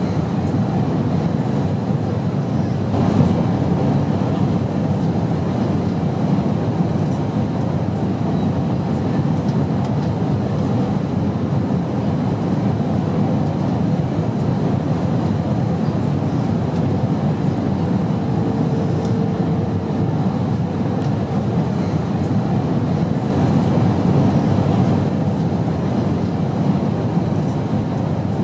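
Steady, low airplane noise with no breaks, a continuous droning hiss heavy in the low end. A faint brief tone shows up about two-thirds of the way through.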